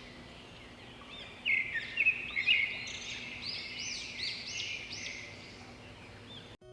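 Birds chirping: a run of short, repeated high chirps over a faint outdoor hiss, loudest between about one and a half and three seconds in.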